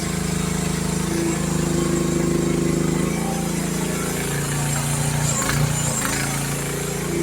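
Youtop YT15 mini excavator's engine running steadily while it digs, its tone shifting slightly under load, with a single clunk about five and a half seconds in.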